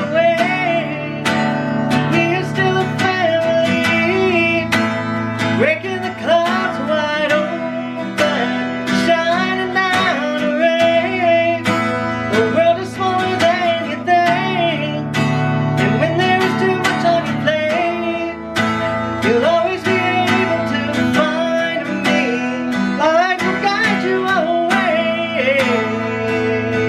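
Acoustic guitar strummed as accompaniment to a voice singing a slow song.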